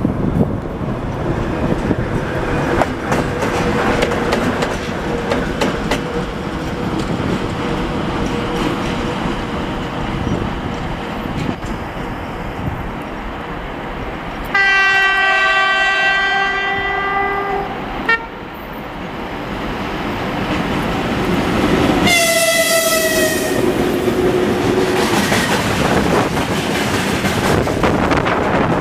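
A VL80S electric locomotive approaching with a freight train, its running noise rumbling steadily. About halfway through it sounds one long horn blast of about three seconds. Some seconds later a second, shorter blast comes with its pitch dropping as the locomotive passes, and the rumble and wheel clatter of the train grow louder.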